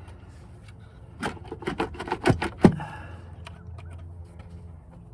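A quick, irregular run of knocks and clacks, about eight in a second and a half, the last one the loudest, from work on a car engine's valve cover as it is pried and knocked at to free it. A few faint ticks follow over a steady low hum.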